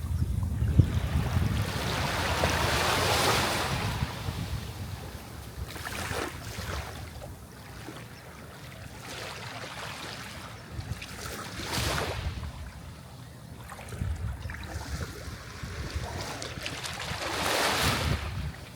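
Sea waves breaking and washing up the shore in repeated surges: a big swell of surf in the first few seconds, smaller ones around six and twelve seconds, and another building near the end, over a steady low rumble.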